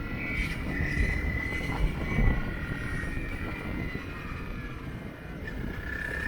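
Motorcycle riding along a forest road: engine running steadily under heavy wind and road rumble, with a few short jolts about one to two seconds in.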